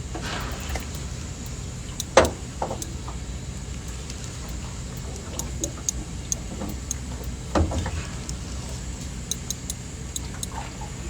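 Steady low motor hum, with a sharp knock about two seconds in, a softer one later, and faint scattered clicks.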